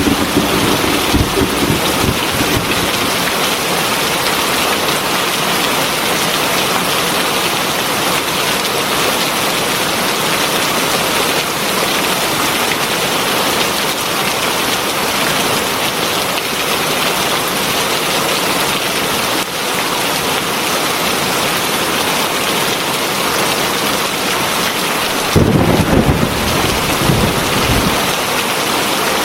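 Heavy rain falling steadily in a dense, even hiss. A rumble of thunder fades out in the first couple of seconds, and another rolls in for a few seconds near the end.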